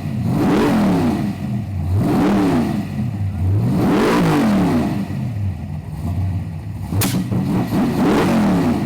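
A car engine revved repeatedly, its pitch rising and falling about four times, with a sharp click about seven seconds in.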